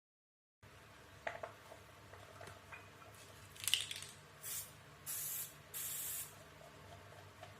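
Aerosol lubricant spray can hissing in three short bursts, the last two about half a second each, after a few handling clicks and a knock.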